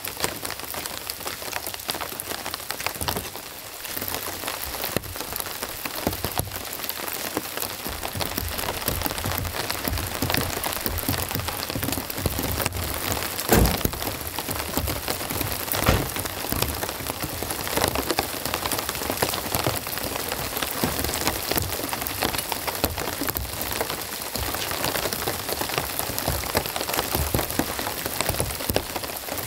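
Heavy rain falling steadily. A few sharper knocks stand out from it, the loudest about halfway through.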